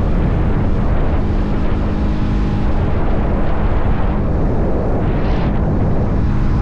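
Motorcycle engine running at a steady cruise, with heavy wind rush over the microphone. A short hiss swells and fades about five seconds in.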